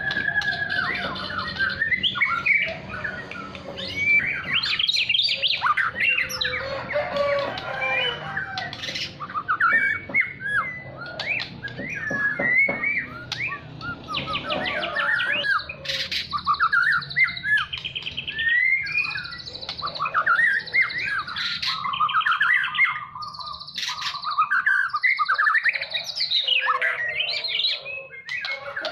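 White-rumped shama (murai batu) singing a long, varied song of whistled glides, fast trills and rattling chip series, phrase after phrase without pause.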